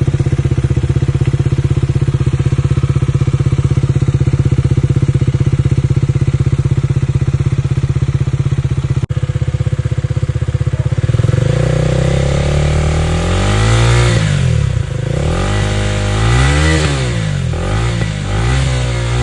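KTM Duke 250's single-cylinder engine through an aftermarket Akrapovic exhaust, idling with a steady loping pulse, then blipped several times in quick rising-and-falling revs a little past halfway.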